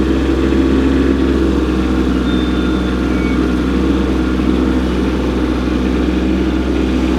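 Kubota compact tractor's diesel engine running steadily, with no rise or fall in speed.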